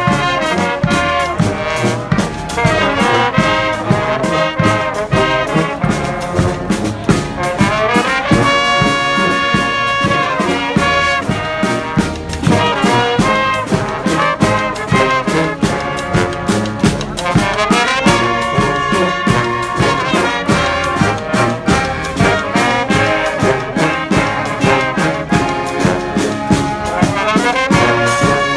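Live brass band playing: trumpets and trombones in a loud, fast tune over a steady drum beat, with upward rising runs about 8, 17 and 27 seconds in.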